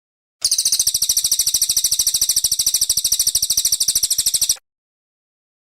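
Brown cililin songbird singing one fast, high, buzzing trill of about a dozen notes a second, lasting about four seconds. It starts and stops abruptly.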